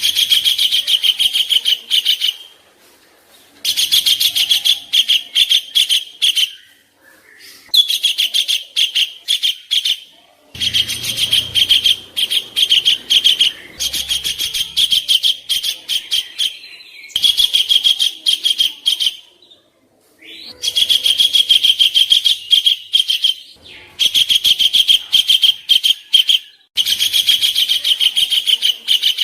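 Songbird singing harsh, rapid trills: about eight phrases of fast repeated sharp notes, each a few seconds long, separated by short pauses. It is the rough 'isian kasaran' song used as masteran, a recording played to teach competition songbirds their song.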